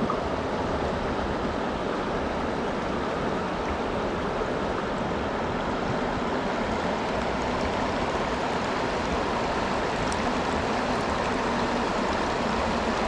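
River water rushing steadily over a shallow rocky run, an even, continuous rushing noise.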